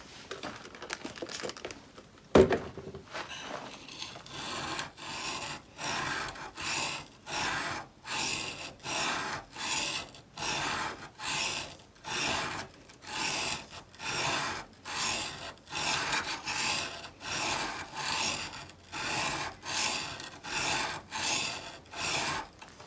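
Steel chisel blade being honed on a whetstone wetted with Windex: steady back-and-forth rasping strokes, a little over one a second. A single sharp knock about two seconds in, before the strokes settle into rhythm.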